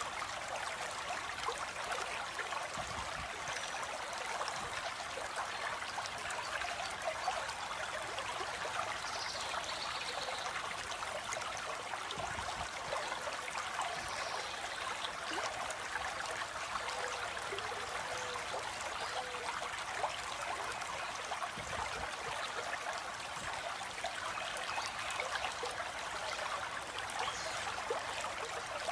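Stream water flowing steadily, a continuous trickling and splashing.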